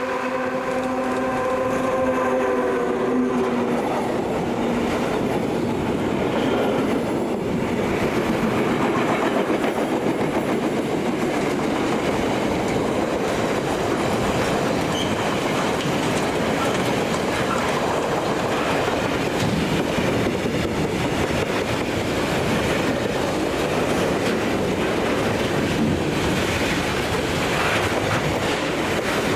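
A train's horn ending in the first few seconds as the train comes by close, then a long steady rumble and clatter of wheels on the rails as the train passes.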